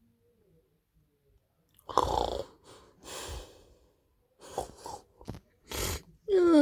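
A person's loud, breathy exhalations, several short puffs of breath, ending in a voiced sigh that falls in pitch.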